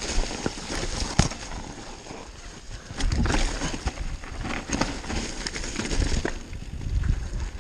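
Downhill mountain bike rolling over loose rocks: tyres crunching on stones, with frequent sharp clicks and rattles from the bike. Heavier low rumbles come about three and seven seconds in.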